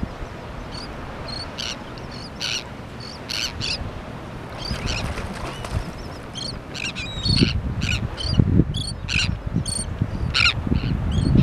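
A flock of terns and gulls calling over feeding fish: many short, high, harsh calls coming every half second or so. A low rumble underneath grows louder in the last few seconds.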